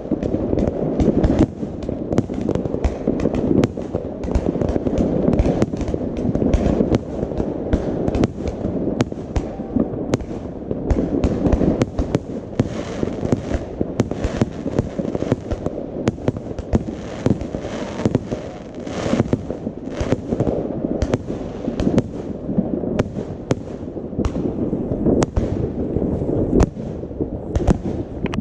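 Fireworks going off without a break: many sharp overlapping bangs a second over a constant low rumble.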